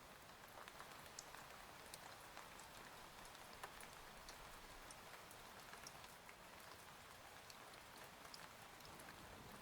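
Faint steady rain: an even hiss with many small drops ticking at irregular moments, like heavy rain heard on a cabin window.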